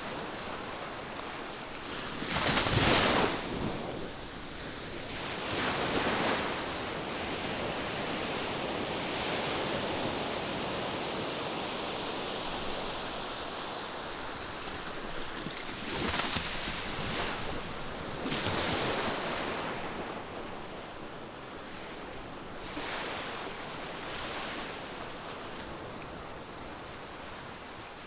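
Ocean waves washing onto the shore: a steady surf wash with several louder surges as waves break, the loudest about three seconds in.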